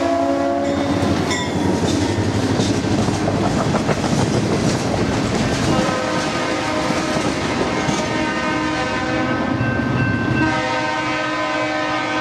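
Freight train passing close: the Norfolk Southern diesel locomotive's horn sounds, then gives way about half a second in to loud engine and wheel noise as the locomotive goes by. The freight cars then roll past with wheels clacking over the rail joints, and a multi-note train horn sounds again from about six seconds in and more strongly near the end.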